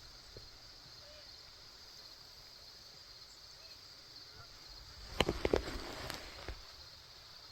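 A steady chorus of insects chirping, with a quick cluster of close knocks and rustling about five seconds in.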